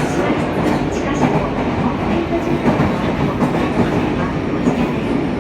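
Yokohama Municipal Subway Blue Line train running along the track at steady speed, a continuous rumble of wheels on rail with scattered clicks and clacks over rail joints.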